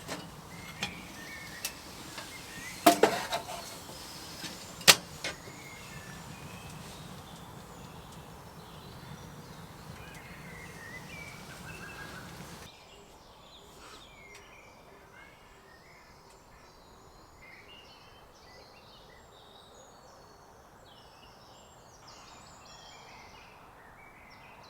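Several sharp knocks and clicks, the loudest a cluster about three seconds in and a single one near five seconds, over a steady outdoor background. Partway through, the background suddenly drops quieter, leaving faint bird chirps.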